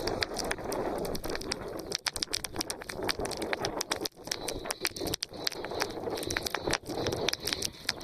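Wood fire crackling, with many sharp irregular pops and snaps over a steady hiss.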